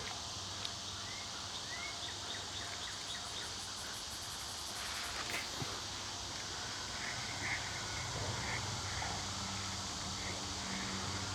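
Quiet outdoor ambience: a steady background hiss with faint, short bird chirps scattered through it. A low hum comes up in the second half.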